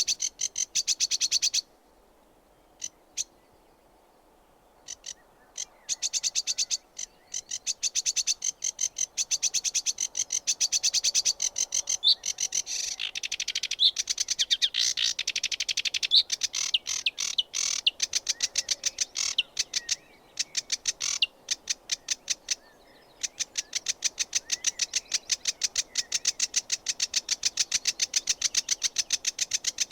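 Sedge warbler singing: long runs of rapid, repeated high notes with a few short rising whistles mixed in, broken by pauses, the longest of them a couple of seconds soon after the start.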